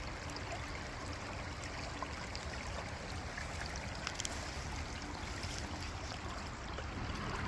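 River water flowing steadily past the bank, an even rushing sound.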